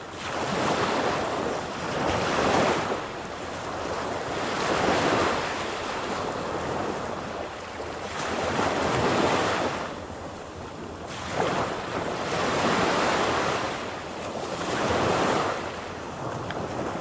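Sea surf breaking and washing up a beach, swelling and falling every few seconds, with wind buffeting the microphone.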